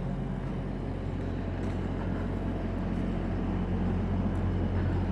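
A heavy engine idling steadily with a low, even hum, slowly growing louder.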